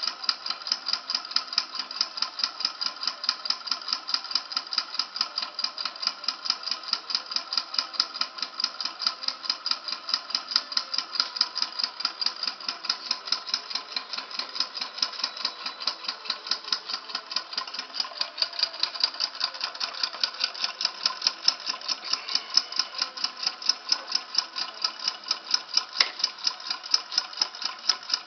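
Small model Stirling engine running steadily, its mechanism making a rapid, even ticking of several clicks a second.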